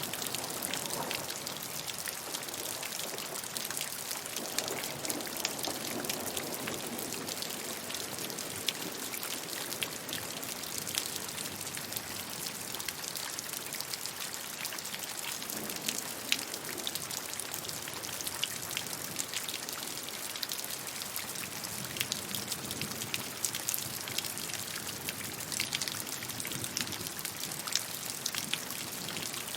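Steady rainfall with many separate drops pattering and ticking on a surface.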